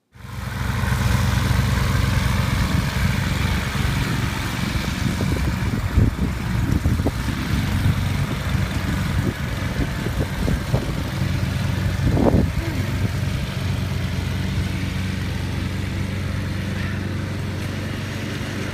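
An engine running steadily at an even, low pitch, with a few short knocks and a brief higher sound about twelve seconds in.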